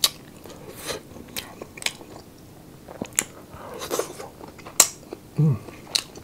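Close-up chewing and biting of crispy food, with sharp crunches and wet mouth clicks every second or so, and a brief hum from the eater about five seconds in.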